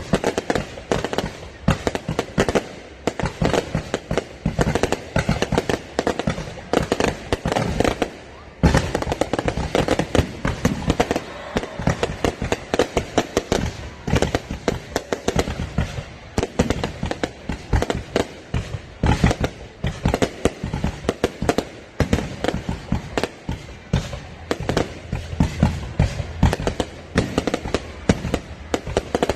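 Fireworks display: a dense, continuous run of bangs and crackles, many a second, with a brief break about eight seconds in.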